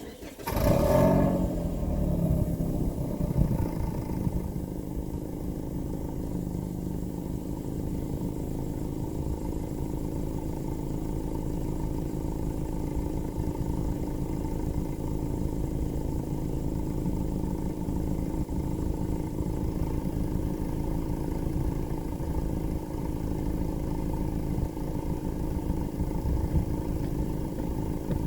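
A 2023 Toyota Corolla LE's four-cylinder engine starting: it catches about half a second in, the revs flare briefly, then it settles within a few seconds into a steady idle heard at the exhaust.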